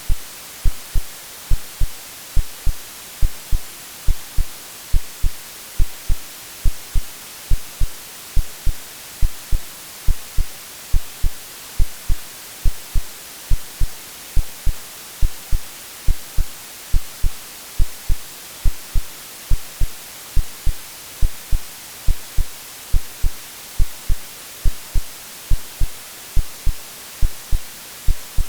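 Synthesized heartbeat, a low double thump (lub-dub) repeating evenly a little faster than once a second, over a steady white-noise hiss.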